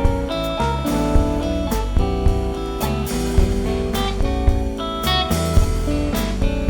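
Live rock band playing an instrumental passage: guitar to the fore over bass and drums, with steady drum hits throughout.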